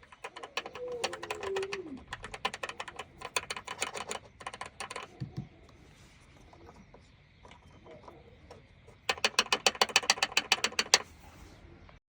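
Plastic rattle from a Mazda 3's B-pillar trim: fast, even clicking at about ten a second, in a long spell over the first five seconds and another near the end. It comes from the loose plastic clip that holds the trim's screw.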